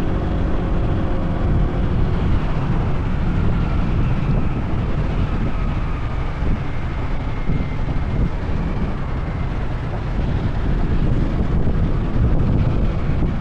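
Honda PCX 160 scooter under way, its single-cylinder engine running steadily under heavy wind noise on the microphone. A faint whine slides slowly in pitch through the middle.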